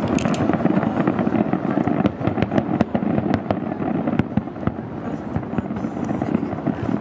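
Fireworks finale barrage: a rapid, overlapping string of sharp bangs and crackles over a continuous rumble of explosions.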